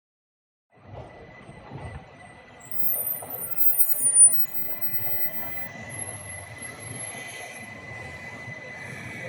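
A pair of trams, one towing the other, passing on street track, with high-pitched wheel squeal loudest about three to four seconds in, over a steady rolling rumble and a constant high whine. The sound starts about a second in.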